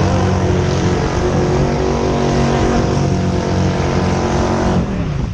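Drag-racing car engine held at high, steady revs, then falling away near the end as the throttle is released.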